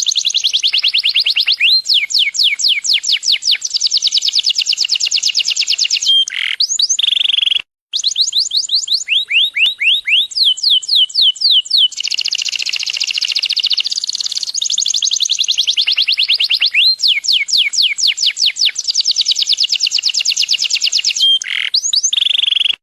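Yellow domestic canary singing: long rapid trills of fast repeated notes, many sweeping downward, changing from one roll to the next, with a brief break about eight seconds in.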